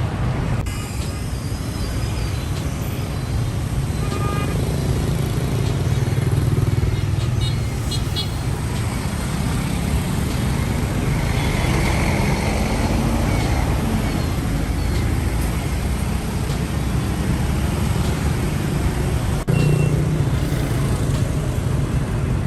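Road traffic: a large motor vehicle's engine runs steadily, with a low rumble and road noise. A couple of brief horn toots sound in the first half, and the sound changes abruptly about 19 seconds in.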